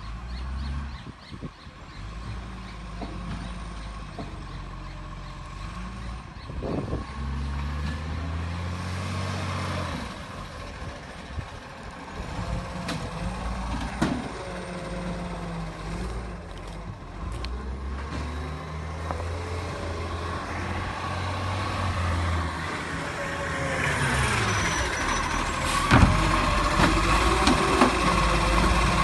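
Garbage truck's diesel engine running, its pitch rising and falling as it works and growing louder toward the end, with a steady high tone over it. A sharp bang sounds near the end.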